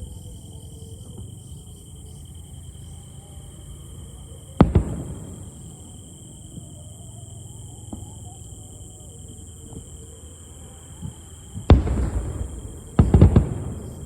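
Aerial firework shells bursting: three loud booms, one about a third of the way in and two close together near the end, each trailing off in an echo.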